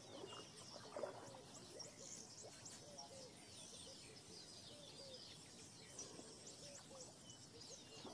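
Faint wild birds chirping, many short high calls in quick succession, with fainter, lower calls beneath.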